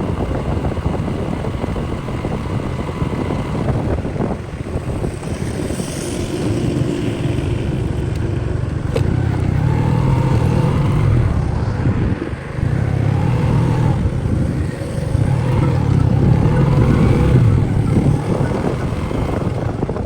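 Motorcycle engine running under way with wind and road noise, the engine note rising and falling as the bike speeds up and eases off, with a brief drop about twelve seconds in.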